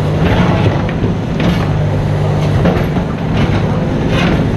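Mini excavator's diesel engine running steadily, with several short knocks or scrapes from the machine working.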